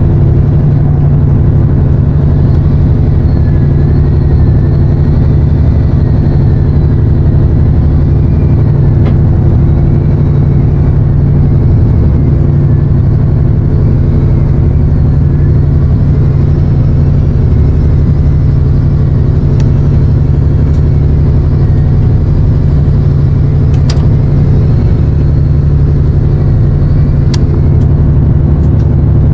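A boat's engine running steadily and loudly close by, a constant low hum that holds an even pitch throughout. A few faint clicks come near the end.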